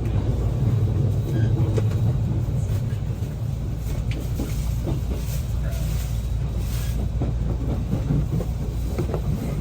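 A train running on the rails: a steady low rumble with faint scattered clicks.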